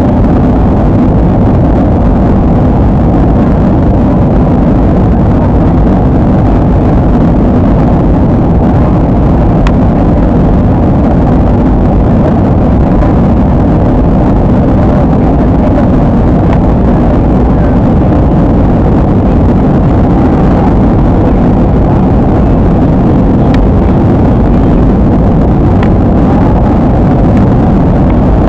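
Steady airliner cabin noise in flight: the even rush of the jet engines and airflow, heavy in the low end and unchanging.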